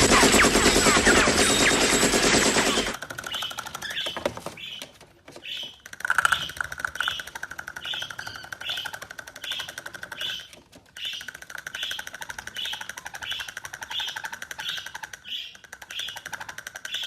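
A loud, dense rattling for about three seconds, then a parrot chirping in a steady series of short calls, roughly two a second, over a fainter fast rattle.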